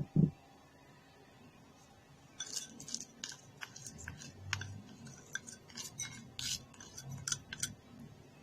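Two loud knocks at the start, then a quick, uneven run of small clicks and rattles as stearic acid and emulsifying wax are added into a mixing bowl.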